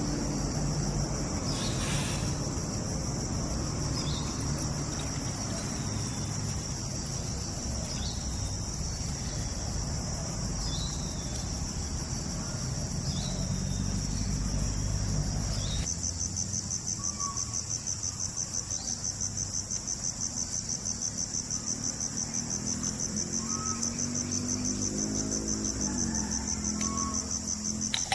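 Rainforest insects at night keeping up a steady high-pitched trill. About halfway through it changes to a fast, even pulsing trill. A low background rumble underneath stops at the same moment.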